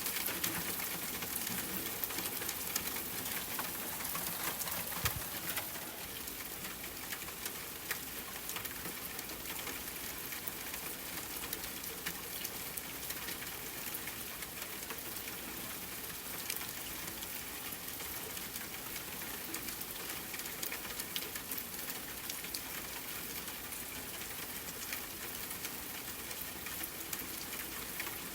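Steady rain hissing down, with scattered sharp pops and crackles from a wood campfire. It is a little louder for the first six seconds, then settles to an even level.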